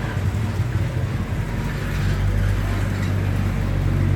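A steady low hum that grows louder about two seconds in.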